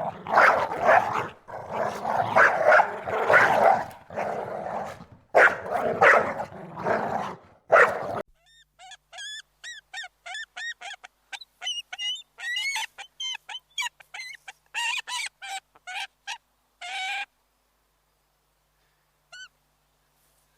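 A dog barking loudly in rough, noisy bursts for about eight seconds. After a brief pause comes a quick run of short, high, pitched calls from fowl, stopping about three seconds before the end.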